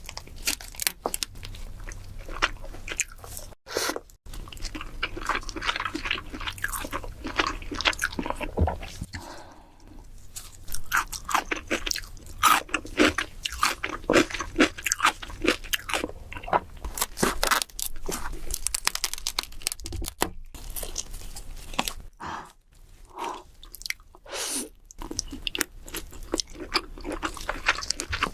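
Close-miked eating of king crab: crunching, biting and chewing, with many sharp crackles in quick succession and brief pauses now and then.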